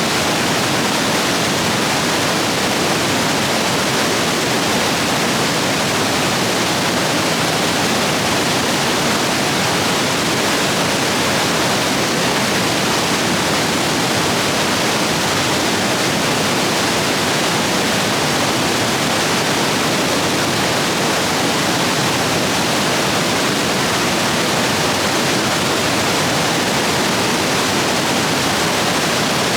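Rapids in a rain-swollen stream rushing steadily over rocks, a constant loud wash of water noise.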